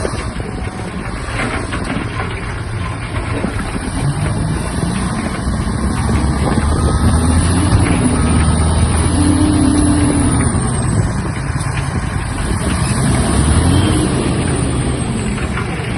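Shantui DH17-C3 bulldozer's diesel engine running under load, its pitch and level rising and falling as it revs up a few seconds in and again near the end. A high whine rises and falls over the engine sound.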